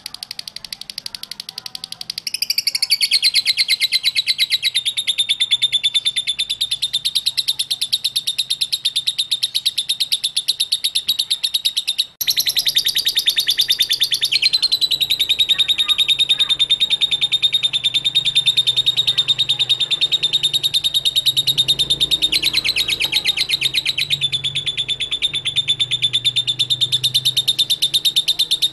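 Lovebird singing a long, rapid, unbroken chattering trill (the "ngekek" song), breaking off for an instant about twelve seconds in and then carrying on.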